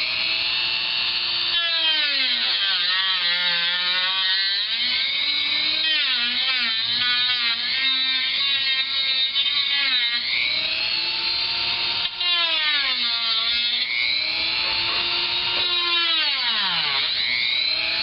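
Dremel rotary tool running at high speed while cutting into a laptop's plastic bottom case. Its whine drops in pitch each time the bit bites into the plastic and rises again as it frees up, with a few deep dips.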